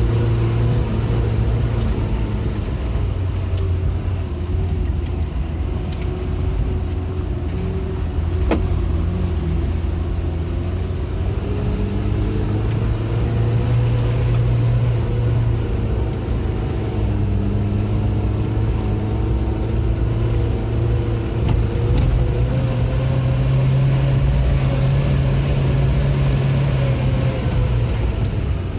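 Motor vehicle engine running continuously, its pitch slowly rising and falling as the load changes.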